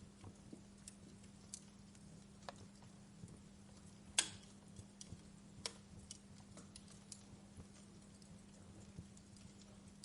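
Wood fire crackling: scattered sharp pops and snaps at irregular intervals, the loudest about four seconds in, over a faint steady low hum.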